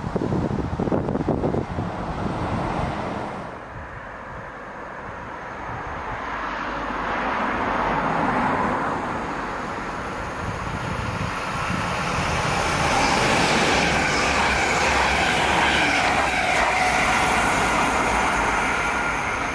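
ABTR ER1 electric train approaching and passing: a rush of wheels and running gear that builds from a few seconds in, and is loudest in the second half with a faint steady whine over it.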